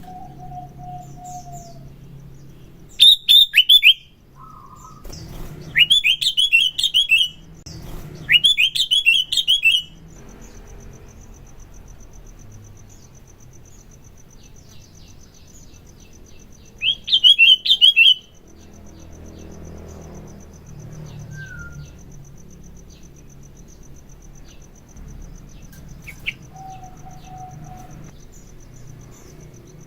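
Sooty-headed bulbul (kutilang) singing in four loud bursts of quick, falling chattering notes, with a few softer whistled calls between them.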